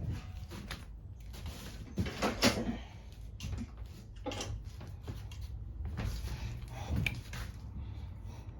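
Hand tools and metal and plastic parts clicking and knocking while a lawn mower's carburettor is being taken off, with a louder clatter about two seconds in, over a low steady hum.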